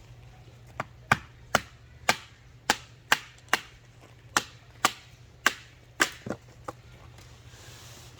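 Hammering: about a dozen sharp blows in quick succession, roughly two a second, the last few lighter.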